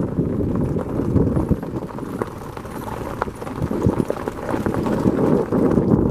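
A vehicle travelling over a rough road: a steady low rumble with irregular knocks and rattles.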